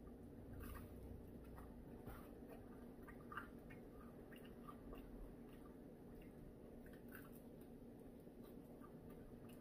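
Faint eating sounds of fried chicken being pulled apart by hand and chewed: scattered soft clicks and squishes over quiet room tone.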